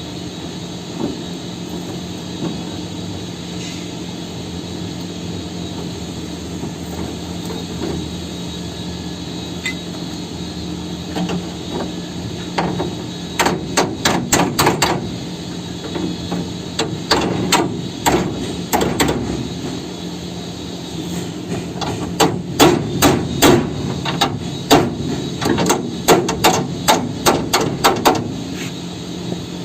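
Hammer blows on the steel of a vehicle chassis, coming in quick runs of several strikes a second from about halfway through. A steady hum sits underneath throughout.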